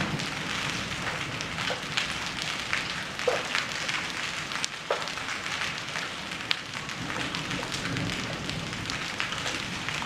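Hailstorm: hailstones striking hard surfaces in sharp, irregular clicks and raps over a steady hiss of heavy rain.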